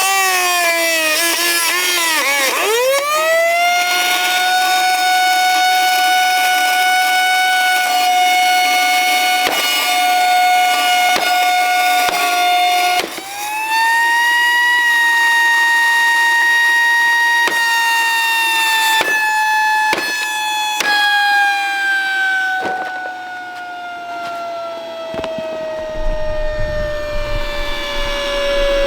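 Shark Rotator XL vacuum cleaner motor running with a high whine. Its pitch dips sharply and recovers a few seconds in, jumps higher about halfway through, then slowly sinks. Sharp knocks come at intervals, and a low rumble joins near the end.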